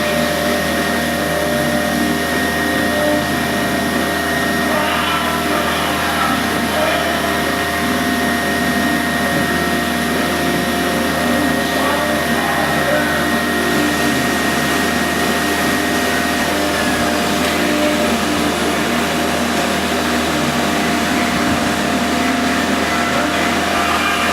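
Sound installation giving off a steady, dense mechanical drone, like motors or blowers running, with several held tones layered in. A high held tone slides down slightly and stops about 17 seconds in, while a lower one carries on.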